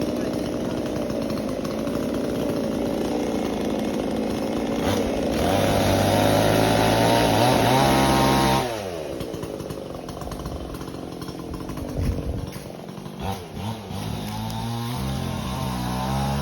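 Chainsaw engine running at a steady speed, then revved up hard about five seconds in and held high for around three seconds before dropping sharply back to a low idle. A few knocks come during the idle, and the engine picks up again near the end.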